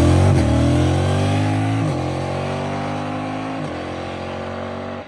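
2025 Yamaha MT-07's parallel-twin engine on full acceleration through three quick-shifter upshifts, about a second and a half apart. At each shift the engine note cuts briefly and drops in pitch, then climbs again. The sound grows fainter throughout.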